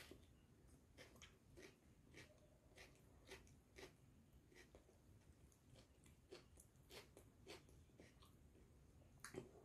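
Faint, close-miked chewing: a person eating, with soft wet mouth clicks and smacks at irregular intervals, about two a second, one a little louder near the end.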